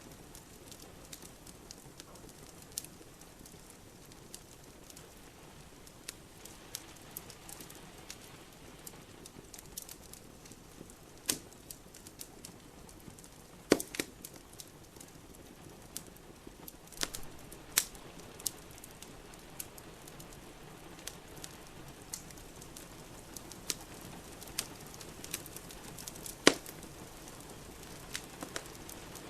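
Wood fire in a fireplace crackling, with irregular sharp pops, the loudest about 14 seconds and 26 seconds in, over a soft steady hiss of rain.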